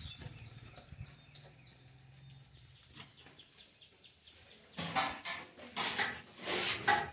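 Bird calls, loud and rapidly repeated in the last two seconds, over a faint low hum.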